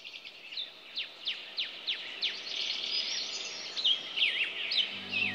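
Birds chirping, fading in: many quick, high chirps that sweep down in pitch, several a second, overlapping one another. Music comes in near the end.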